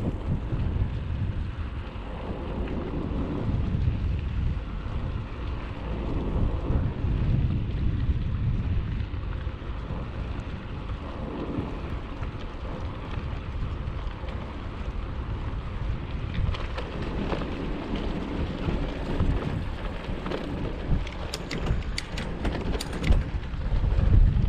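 Wind buffeting the microphone of a camera carried on a moving bicycle: a steady, heavy low rumble. A run of sharp clicks comes through in the last third.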